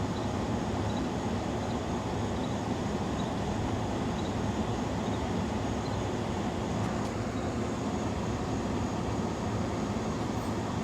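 Truck engine running steadily as a low, even rumble while it hauls a log on a rope through snatch blocks.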